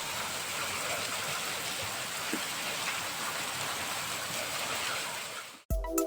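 Steady hiss of rain falling. It cuts off suddenly near the end, and music with a steady beat starts.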